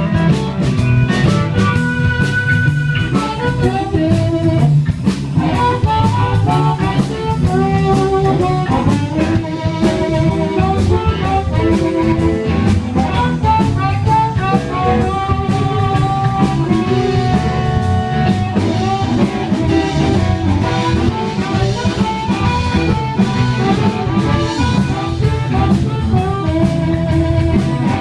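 Live blues band playing an instrumental break: drum kit and bass keeping a steady beat under a melodic lead line.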